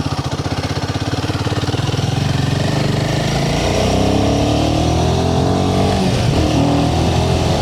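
Royal Enfield Himalayan 450's single-cylinder engine running under way; its pitch climbs steadily as it accelerates from about two and a half seconds in, then dips briefly near six seconds before pulling again.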